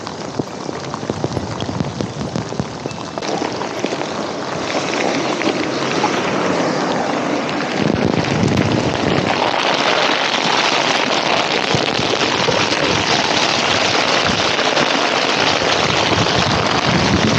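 Downpour of rain, drops striking a foam sleeping mat held just above the microphone. It grows louder through the first half and then stays heavy.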